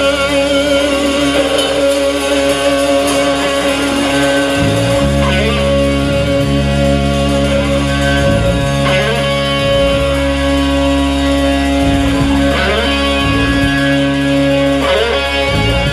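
Live rock band playing, led by electric guitar, with a heavy low end coming in about four and a half seconds in.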